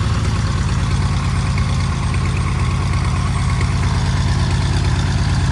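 1948 Cessna 170's six-cylinder Continental engine and propeller idling with a steady, even, rapid low pulse. The idle is good on its first run after sitting.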